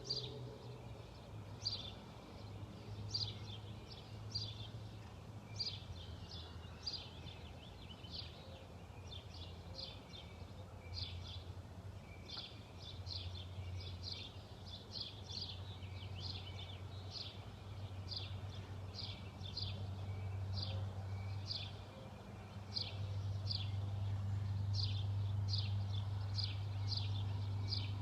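A small songbird chirping over and over, short high notes about one or two a second, against a steady low rumble that grows louder near the end.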